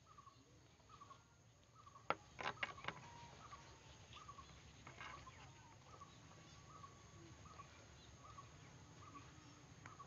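A bird's short call note repeated steadily about twice a second, faint, with a few sharp clicks about two to three seconds in.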